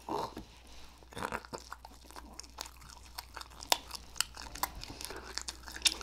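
A person chewing a mouthful of moist strawberry cake, with many small irregular wet mouth clicks and smacks.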